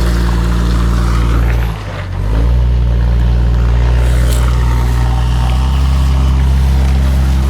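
Suzuki SJ engine running steadily at low speed off-road, dipping briefly about two seconds in before settling again.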